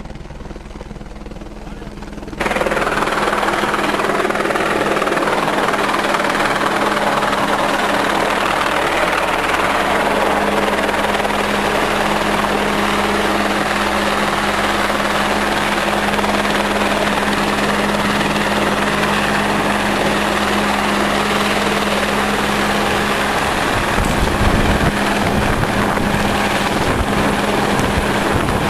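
Helicopter running close by: a loud, even rotor and engine noise with a steady hum, starting suddenly about two seconds in. Near the end, low rumbling gusts of wind buffet the microphone.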